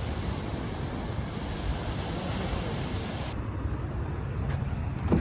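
Ocean surf washing with wind rumbling on the microphone, a steady noisy wash; about three seconds in the higher hiss drops away abruptly.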